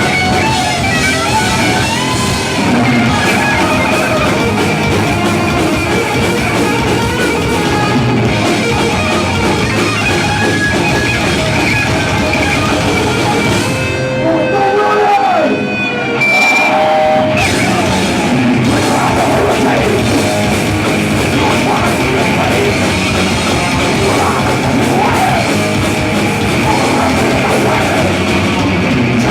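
Heavy metal band playing with distorted electric guitars and a drum kit. About halfway through, the drums and low end drop out for about two seconds, leaving a guitar with bending notes, and then the full band comes back in.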